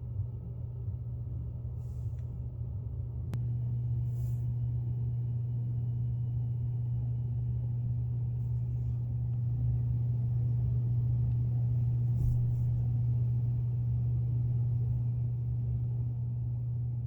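A steady low rumble that steps up slightly after a click about three seconds in and grows a little louder again about ten seconds in.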